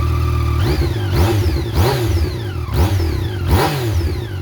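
Yamaha MT-09 SP's inline three-cylinder engine through its standard stock exhaust, idling and blipped four times in quick succession, each rev rising sharply and falling back to idle.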